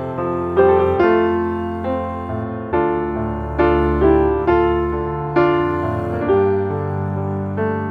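Background music: piano chords, a new chord struck about once a second and each fading before the next.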